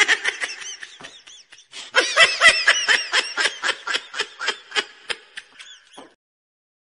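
A person laughing in quick, rhythmic ha-ha pulses: a short fit, then a longer one from about two seconds in.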